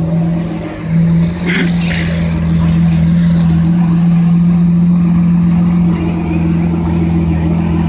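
A vehicle engine running with a steady low drone that holds one pitch, with a brief higher sound about a second and a half in.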